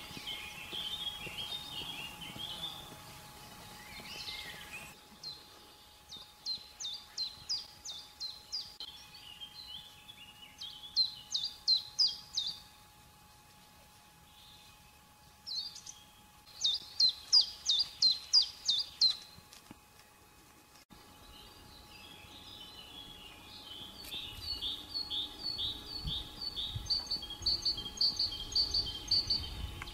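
Small songbirds singing: several bursts of quick, high, repeated chirps lasting a few seconds each, with short pauses between them, then a softer, continuous twittering near the end.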